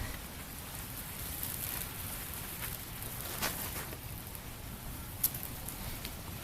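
Freezing rain pattering steadily, with a few small clicks and one sharp click about five seconds in.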